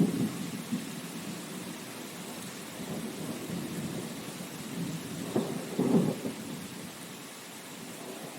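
Steady rain hiss with rumbles of thunder: one surge right at the start and a louder one about five and a half to six seconds in.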